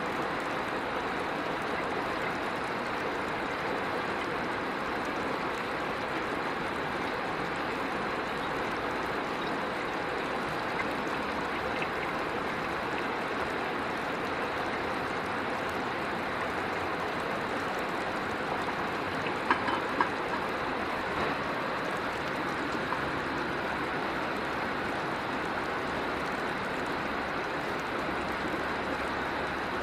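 River water running steadily, with a couple of sharp clicks about twenty seconds in.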